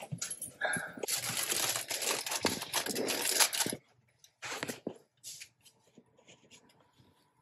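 Crinkling, rustling handling of wrapping material for about four seconds, then a few light taps and clicks.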